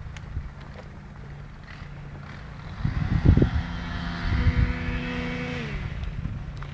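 A motor running with a steady low hum that rises in pitch about three seconds in, then drops in pitch shortly before the end. There are low rumbling thumps on the microphone around the middle.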